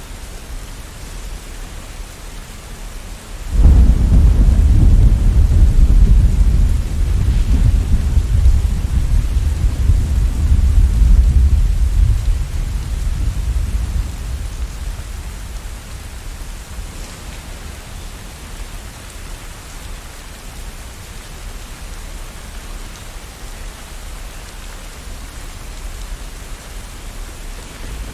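Thunderstorm: steady rain falling, with a roll of thunder that breaks in suddenly a few seconds in, rumbles deep for about eight seconds and dies away over several more, leaving only the rain.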